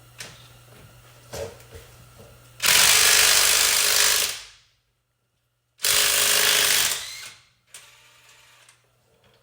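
Impact wrench hammering on a truck's lug nuts in two bursts: one of about two seconds, then, after a short pause, one of about a second and a half.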